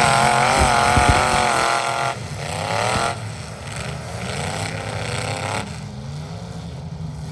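Truck engine running at high revs, its pitch wavering up and down. It drops off about two seconds in, comes back in a shorter burst, then fades to a fainter running sound.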